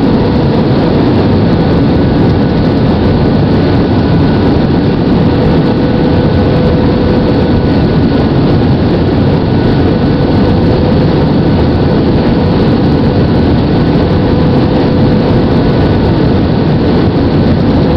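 Steady loud rumble inside a TAM Airbus airliner's cabin: jet engines and airflow running evenly, with a faint steady whine over it.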